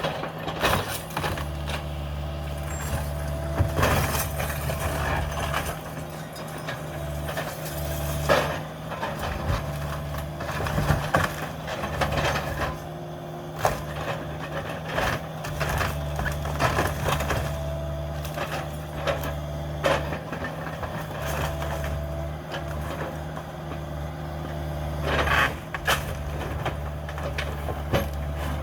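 Cat 305 mini excavator's diesel engine running under load, its hydraulic whine rising and falling as it works, while wood framing cracks, splinters and crunches in frequent sharp snaps as the house is torn down.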